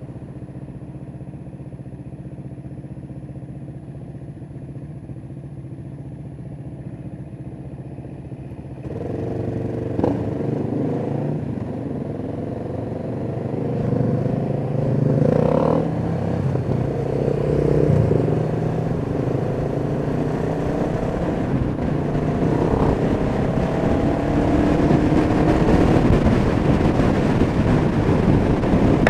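Kawasaki EN500 Vulcan's parallel-twin engine idling steadily for about nine seconds, then pulling away with a click and rising engine pitch. Wind noise builds as the bike gathers speed.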